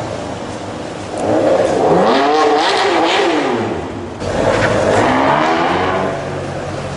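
A supercar's engine accelerating hard: its pitch climbs from about a second in, falls away, then climbs again about four seconds in.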